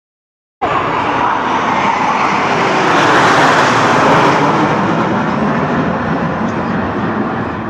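Jet aircraft flying past, a loud roar that builds to its loudest about three to four seconds in and then slowly fades.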